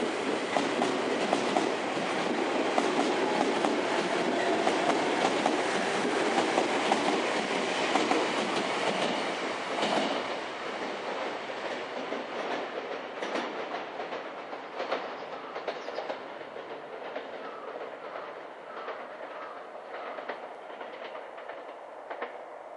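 Sotetsu electric commuter train running through a station, its wheels clattering over rail joints. It is loud for the first half, then fades steadily as the train draws away into a tunnel.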